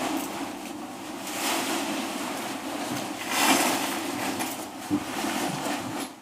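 Wind rushing over the microphone, swelling twice, with a single click near the end.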